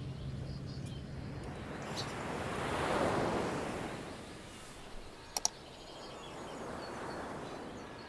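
Sea waves washing onto the shore, the surge rising and falling twice. Two quick clicks about five seconds in.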